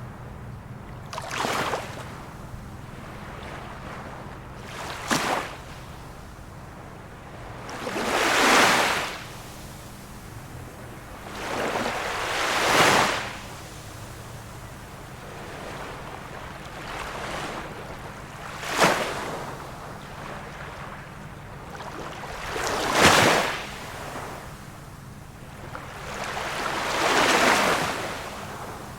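Small waves of a calm sea breaking one after another, about every three to four seconds. Some come as short, sharp splashes and others as longer swelling washes.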